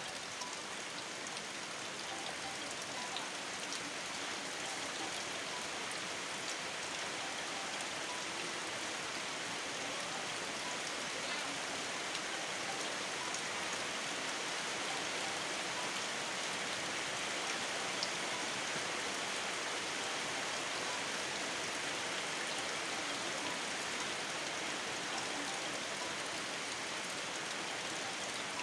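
Steady rain falling: an even hiss with scattered drips.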